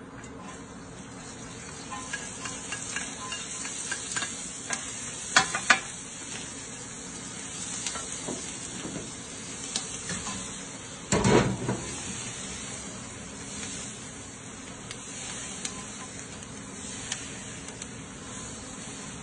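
Shrimp, calamari and vegetables sizzling in the rotating steel drum of an automatic wok, with scattered knocks and scrapes of a wooden spatula against the drum. A loud clatter comes a little past halfway.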